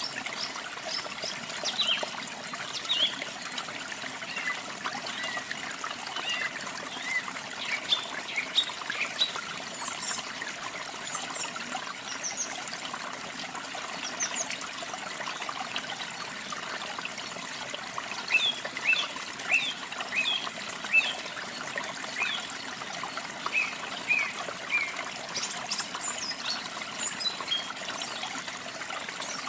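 Running water trickling and splashing steadily, with small birds chirping over it in short, quick calls that come in scattered runs.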